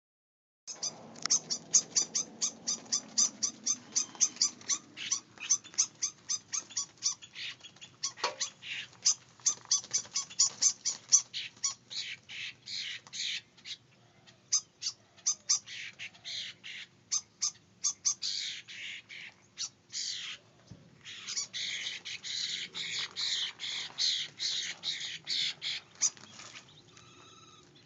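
Woodpeckers calling: long runs of short, sharp, high calls, about three to four a second at first, becoming a denser chatter in the second half.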